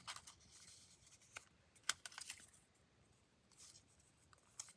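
Faint, scattered rustles and light taps of paper pieces being handled and laid down, with a few soft clicks spread through an otherwise quiet stretch.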